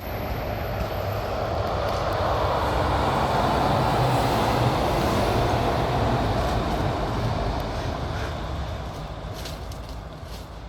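A heavy truck driving past, its engine and tyre noise growing louder to a peak about four seconds in, then slowly fading as it moves away.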